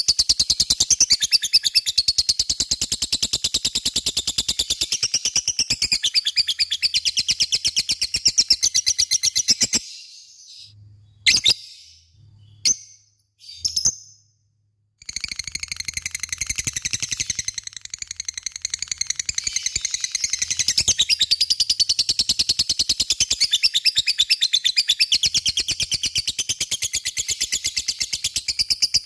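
Lovebird giving its long 'ngekek' chatter: a rapid, high-pitched trill of fast repeated notes. It breaks off about ten seconds in, a few short separate chirps follow, and the long trill starts again about five seconds later.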